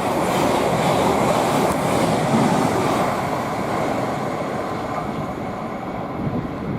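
Class 700 electric multiple unit passing at speed: a steady rush of wheel and rail noise that slowly fades over the last few seconds as the train draws away.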